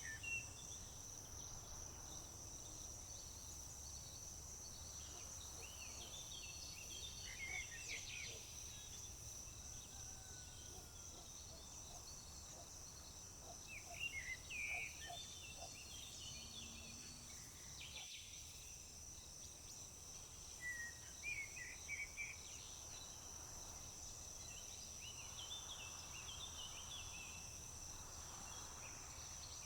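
Quiet summer field ambience: a steady high-pitched drone of crickets runs throughout, with short clusters of songbird chirps and calls coming and going, about eight seconds in, around fourteen seconds, around twenty-two seconds and near the end, over a faint low rumble.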